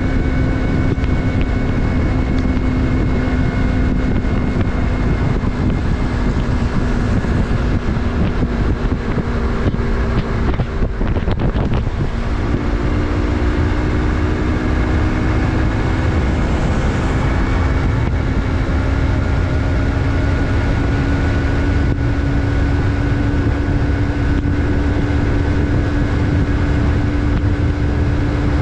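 Yamaha MT-03's 321 cc parallel-twin engine running under way, heard from the rider's position with wind and road rumble. The engine note sags slowly, breaks off briefly near the middle, then comes back higher and climbs gently.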